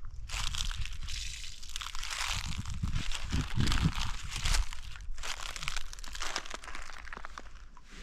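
Broom sweeping over dry ground and debris: a rough, uneven rustling and crunching, with heavier low thuds about midway.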